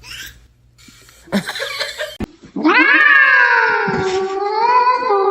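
Cat giving one long, loud drawn-out yowl that starts about two and a half seconds in and slowly sinks in pitch, after a couple of short noisy sounds.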